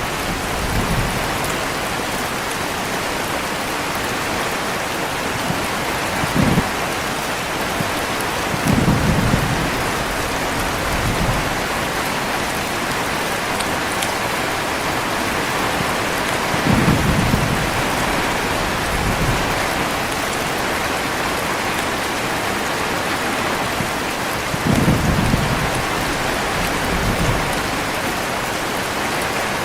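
Heavy rain falling steadily, with deep rolls of thunder breaking through it several times, the strongest roughly every eight seconds and each lasting a second or two.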